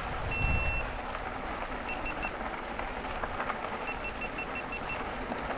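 Helmet camera beeping as it shuts down: one long high beep, then three short beeps about two seconds in, then a run of about six short beeps near the end. Wind and riding noise run under it.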